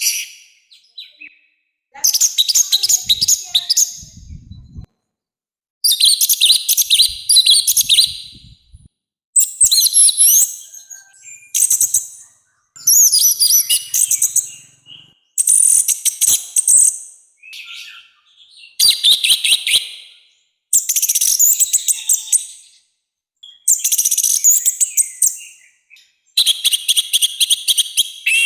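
Orange-headed thrush (anis merah) singing a loud, harsh song of rapid, high, chattering phrases, about ten of them, each a second or two long with short pauses between.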